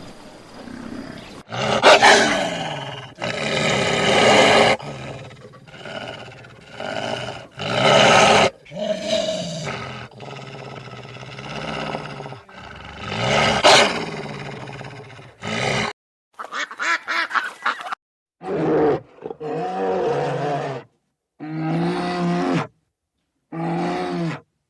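Big cat roaring and growling in long loud calls. About two thirds of the way through the sound cuts to a series of six or seven short, separate calls from another animal, each about a second long.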